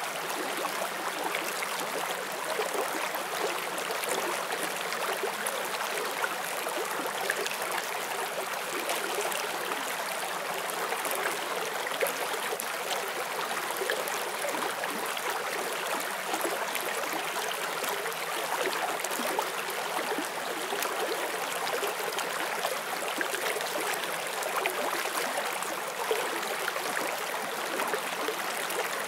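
Forest stream flowing steadily over rocks: a continuous rushing and babbling of running water.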